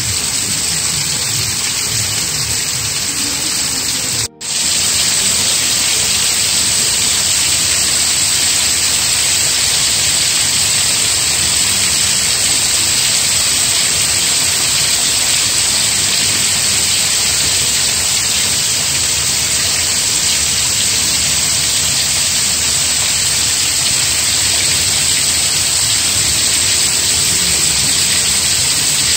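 Steady rain falling, an even hiss of countless drops. The sound cuts out for an instant about four seconds in.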